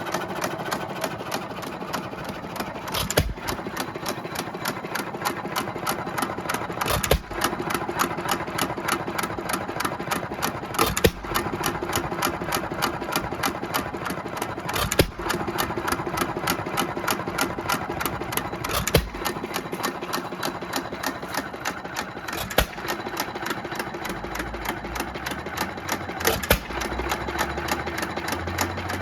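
1920 Economy 2 1/2 HP hit-and-miss engine on its first test run with a rebuilt Webster magneto, running freely. A sharp firing stroke comes about every four seconds, with a fast, even mechanical clatter as it coasts between firings.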